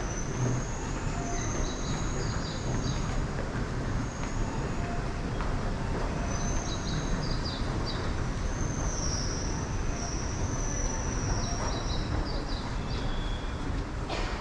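Train running on the rails, a steady rumble with high-pitched wheel squeal that comes and goes.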